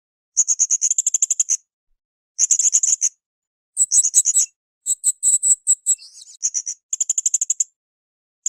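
Blue-crowned hanging parrot (srindit) calling: bursts of rapid, high, thin chirps, about ten notes a second. Each burst lasts under a second or so, about six of them, separated by short silent gaps.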